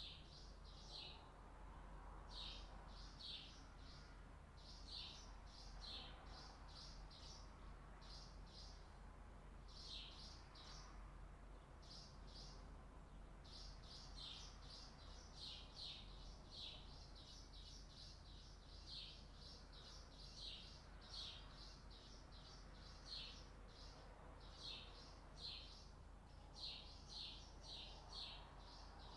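Faint chirping of small birds: quick high chirps in short clusters, one group after another, over a steady low rumble.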